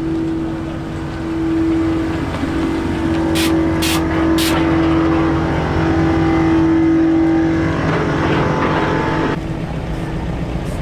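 Vehicle engines running at a mini truck show, a steady drone with a held tone, and three short sharp bursts between about three and a half and four and a half seconds in.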